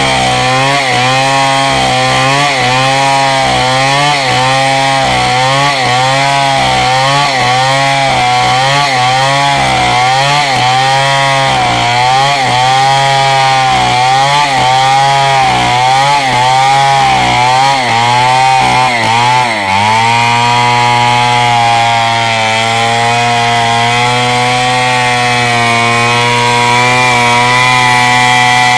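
Two-stroke chainsaw, an imitation Stihl, rip-cutting a wooden beam lengthwise. Its engine pitch wavers up and down about once a second as the bar is worked through the cut, then about twenty seconds in it dips briefly and settles to a steady pitch.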